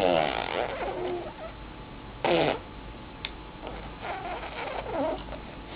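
Baby blowing raspberries, making fart-like buzzing noises with her lips and voice: a wavering one at the start, a short loud one about two seconds in, and a few quieter ones near the end.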